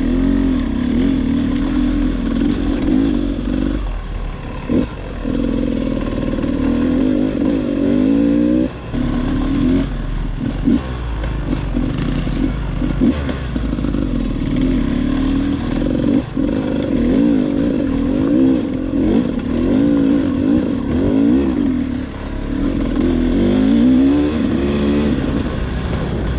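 Off-road motorcycle engine running under load on a trail, its pitch rising and falling again and again as the throttle is worked, with a few brief throttle chops and some clatter from the rough ground.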